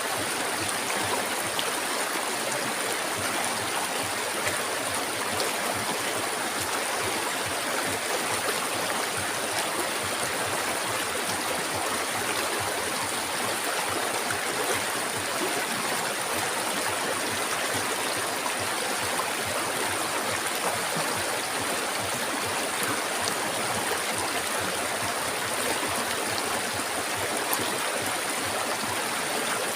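River water flowing, a steady wash that holds the same level throughout.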